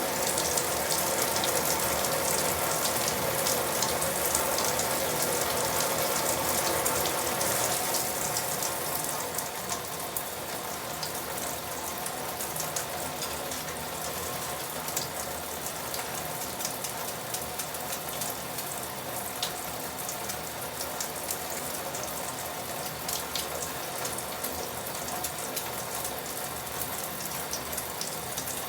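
Tap water running and splashing steadily, with scattered droplet ticks; it is louder for the first eight seconds or so, then runs on a little quieter.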